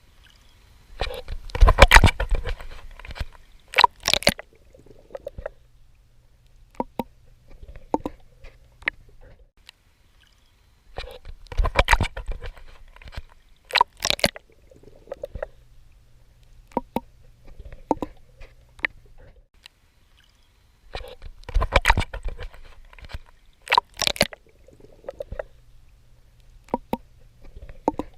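Swimming strokes in sea water: bursts of splashing and sloshing that recur about every ten seconds, with quieter clicks and gurgles between.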